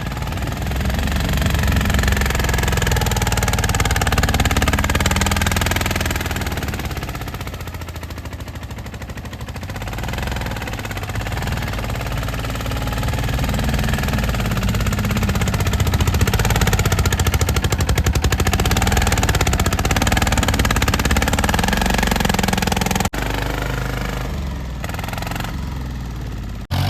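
Small tractor's diesel engine running with a fast knocking beat, growing louder and easing off again as it works. The sound breaks off abruptly a few seconds before the end.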